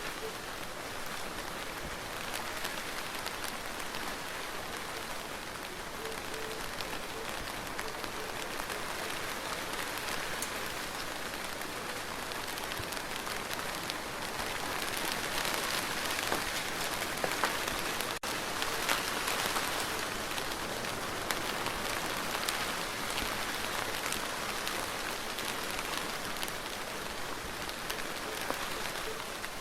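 Steady rain falling, an even hiss dotted with the ticks of single drops, growing a little heavier about halfway through.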